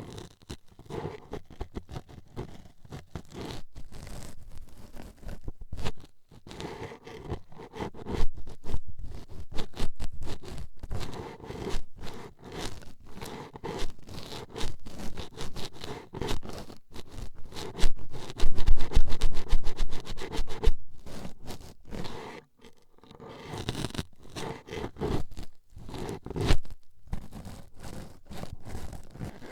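Toothpicks rapidly poking and scratching at a microphone's ear: a dense, irregular stream of close-up scraping strokes, loudest a little past the middle, with a brief pause about three quarters of the way through.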